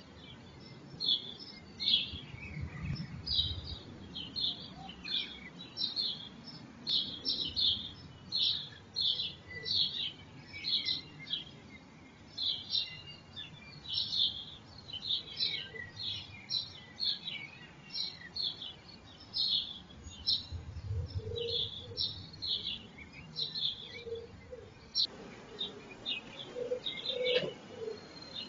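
Small-bird chirping: short, high chirps repeated about twice a second, with a faint low rumble twice in the background.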